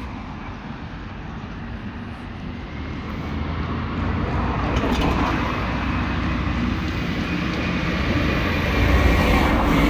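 A car driving past on the road, getting louder until it passes about nine seconds in.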